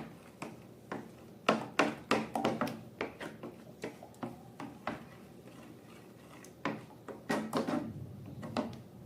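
Slime being squeezed and pressed by hand, giving irregular sticky clicks and small pops. They come in two busy spells with a quieter stretch in the middle.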